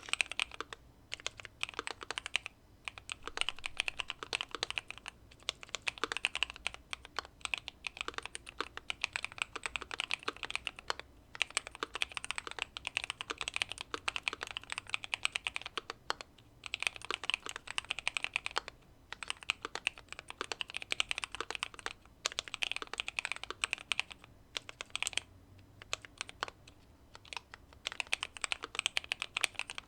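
Typing on a Keychron Q2 mechanical keyboard with factory-lubed Pearl Lemon switches, tape-modded and case-foamed: fast runs of keystrokes in bursts of a few seconds with brief pauses between them.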